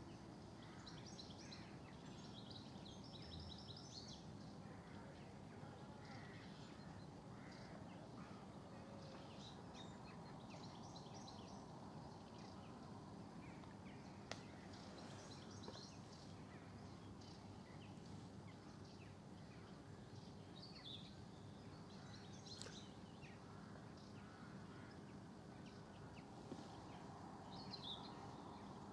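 Faint birdsong: scattered short chirps and quick trills from small birds, over a steady low background rumble.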